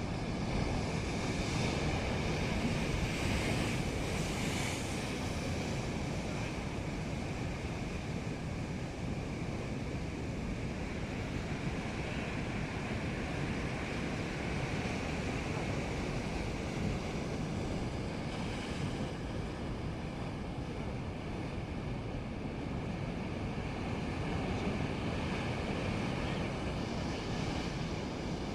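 Rough sea: waves and wind, with wind buffeting the microphone, a steady rushing noise that swells slightly a few times.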